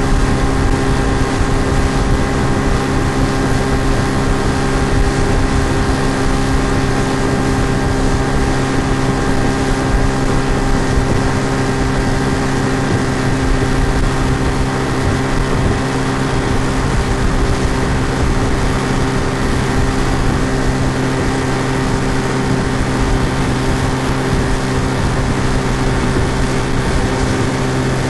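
Outboard motor running at a steady speed, an even drone that never changes. It is a looped sound effect, not the boat's own engine.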